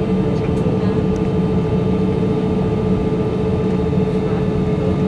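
Steady cabin noise inside an Airbus A320-200 jet airliner: an even drone of engines and airflow with a constant hum.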